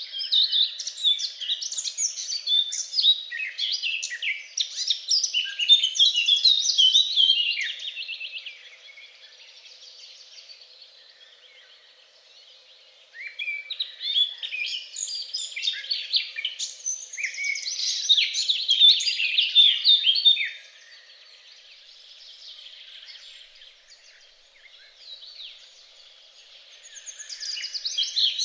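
Songbirds singing long, rapid, twittering phrases in three bouts of several seconds each, with quieter pauses between them.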